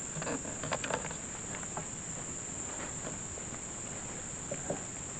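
Steady high-pitched insect chorus, with a few light knocks and rustles in the first second.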